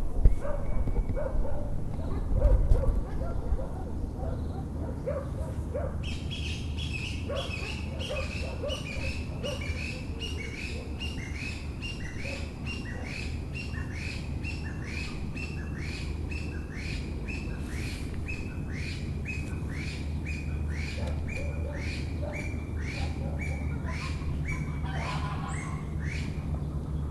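A bird repeating a short, sharp, downward-hooked call about one and a half times a second, starting about six seconds in and stopping shortly before the end. It sounds over a steady low background hum, with a louder low rumble in the first few seconds.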